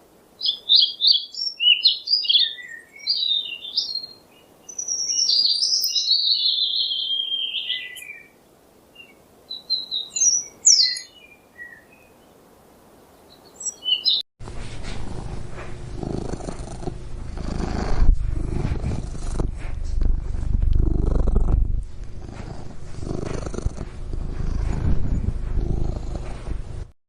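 A small bird chirping and trilling in quick, high phrases with short pauses between them. About fourteen seconds in, this cuts abruptly to a steady low rumbling noise.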